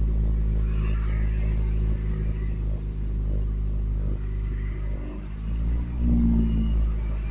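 Truck engine idling with a rumble, sagging about five seconds in and then picking up with a brief rise in revs. The engine keeps dying whenever it is taken out of park and put into gear.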